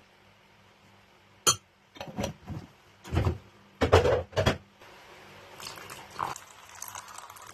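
Cups, jars and utensils being handled while preparing tea: a sharp click, then a run of short knocks and clatters, followed by a few faint clinks.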